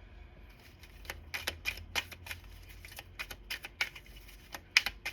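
A run of irregular light clicks and taps, several a second, starting about a second in, the loudest near the end, over a faint low hum.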